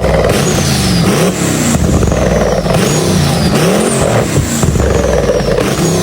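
Car engine revved up and down over and over, about once every second and a half, with a high whistle falling in pitch after each rev.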